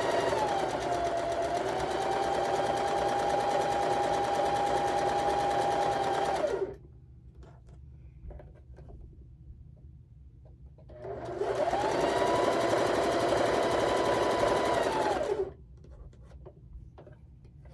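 Electric sewing machine stitching in two runs, its motor whine steady with small changes in speed from the foot pedal. The first run stops about six and a half seconds in; after a pause with faint fabric-handling clicks, a second run of about four seconds starts and stops.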